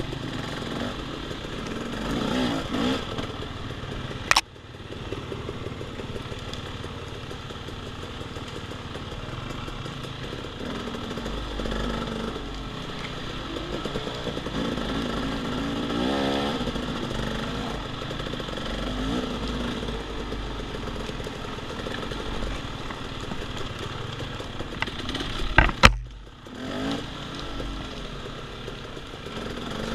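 Off-road dirt bike engine running and revving up and down as it rides a trail. Two sharp knocks stand out, one about four seconds in and a louder one near the end.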